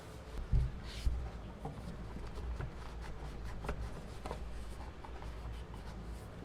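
Light scratching and rubbing with scattered small clicks and two soft thumps about half a second and a second in.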